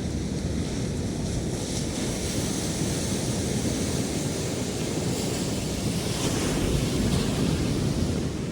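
Ocean surf breaking and washing onto a sandy beach, a steady rush that swells a little near the end, with some wind on the microphone.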